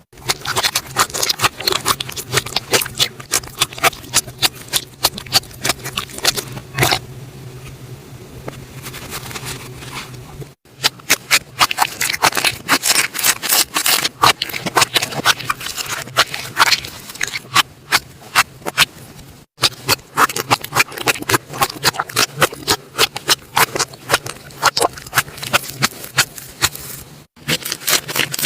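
Slime being squeezed and poked, giving rapid crackling and popping clicks. The sound breaks off abruptly a few times, as at cuts between clips.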